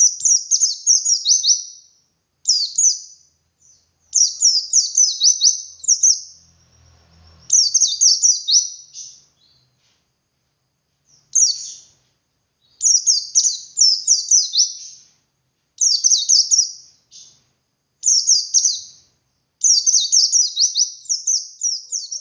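White-eye (pleci) singing its long 'ngalas' song: phrases of rapid, high, down-slurred twittering notes, each one to two seconds long, repeated with short pauses.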